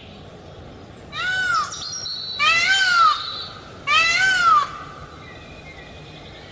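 Cat meowing three times, each meow rising and then falling in pitch and lasting about half a second, over a steady low background hiss.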